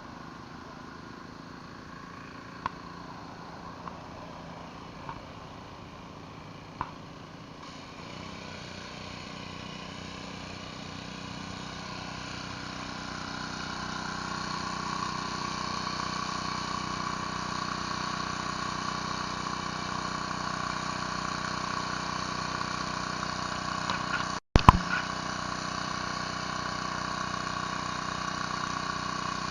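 Pressure washer engine running steadily with its spray hissing, growing louder over the first half. Near the end there is a short break and a single loud knock.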